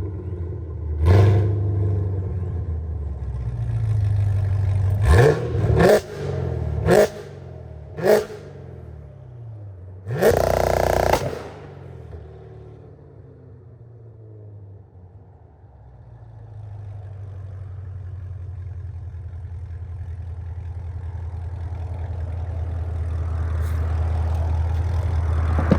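Chevrolet Camaro ZL1's supercharged V8 through its aftermarket exhaust: a run of quick revs with sharp cracks in the first half, one loud blast of about a second near the middle, then a steady low drone that grows louder toward the end.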